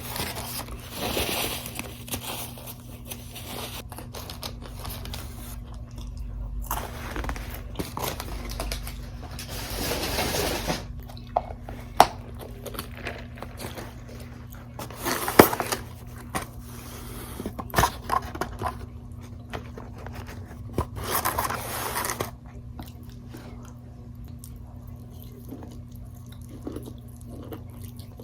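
Close-miked chewing and crunching of fried food, with a few sharp biting clicks. The eating sounds thin out after about 22 seconds, leaving a faint steady hum.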